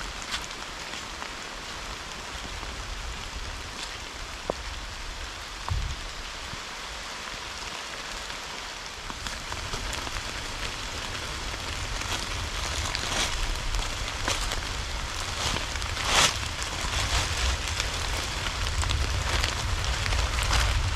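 Steady rain falling, growing heavier in the second half, with louder single drops striking now and then and a low rumble building underneath.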